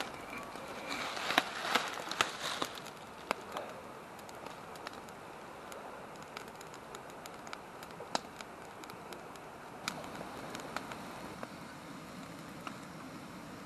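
Wood campfire crackling: a quick run of loud snaps and pops in the first few seconds, then scattered single pops over a steady hiss.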